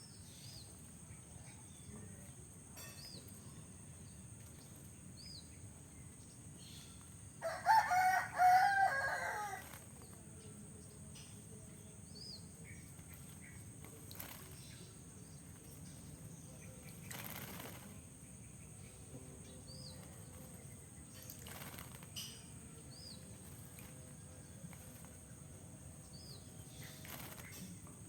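Oriental magpie-robin fluttering its wings in a few brief spells while bathing, with faint short chirps every few seconds. A rooster crows once, loudly, about eight seconds in.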